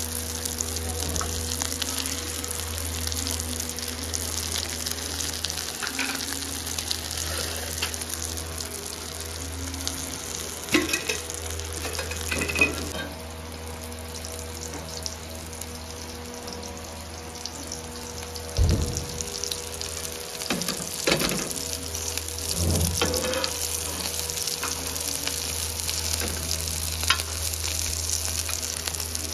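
Chicken shami kababs sizzling steadily in shallow oil on a flat griddle (tawa), with a few short knocks and scrapes of a metal spatula against the pan.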